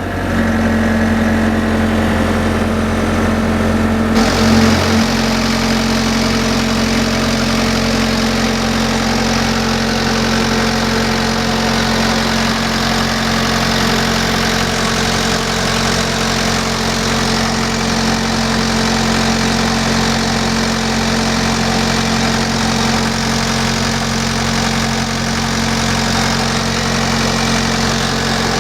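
Mustang 2060 skid steer's diesel engine idling steadily, just after starting. About four seconds in, the sound shifts and turns a little brighter, then it runs on evenly.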